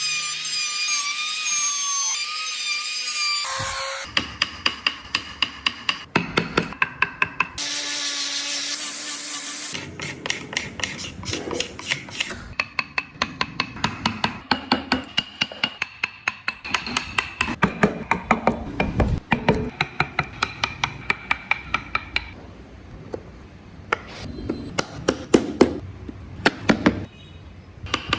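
Woodcarving tools at work: a small power tool whines for the first few seconds, then a hammer strikes a carving chisel in rapid, even taps, several a second, with a ringing note. A second short power-tool burst breaks in around eight seconds, and the tapping carries on after it.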